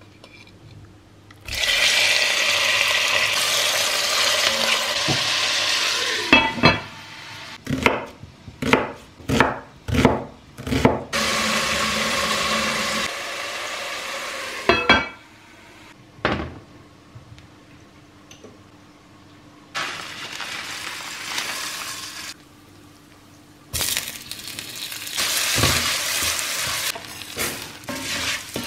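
Kitchen work: several stretches of steady hissing alternate with a run of sharp clinks and knocks of dishes and utensils.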